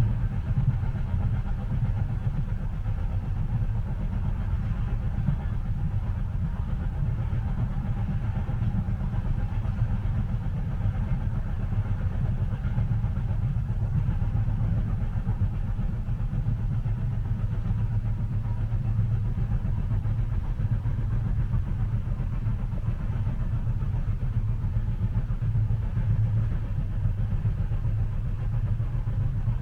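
Steady low rumble of a moving train, heard from inside a passenger carriage, with no distinct clicks or rhythm.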